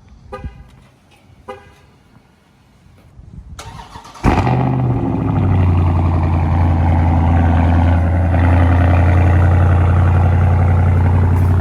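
Cold start of a 2020 Dodge Charger Scat Pack's 392 (6.4-litre HEMI) V8: after two short beeps, the engine fires about four seconds in with a sudden loud flare, then settles into a steady, deep idle.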